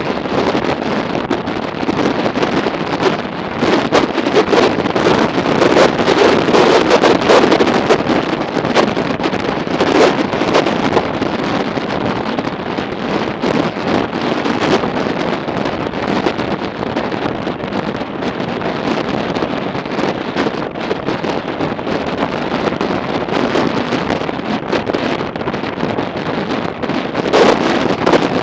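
Wind buffeting the microphone of a motorcycle riding at speed in strong wind, a loud rushing roar that swells and eases every second or two.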